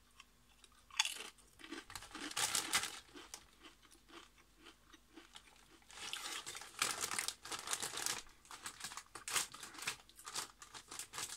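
A Manomasa chimichurri steak tortilla chip being bitten and chewed in the mouth: short crisp crunches about a second in and again around two to three seconds, then steadier crunchy chewing from about six seconds on.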